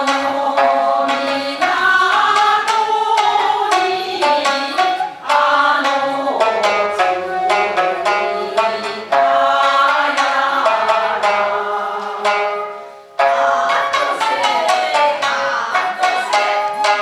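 Japanese folk song (min'yō) music: shamisen plucked in a steady rhythm under a sustained, bending melody line, with a brief break about thirteen seconds in.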